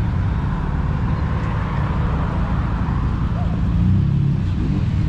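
Nissan Skyline R34 GT-R's twin-turbo straight-six running as the car drives off, with a broad swell of noise about two seconds in as it pulls past.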